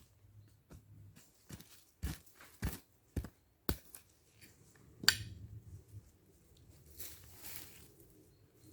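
A series of sharp knocks about half a second apart, then a louder, ringing strike about five seconds in, followed by a scraping rustle.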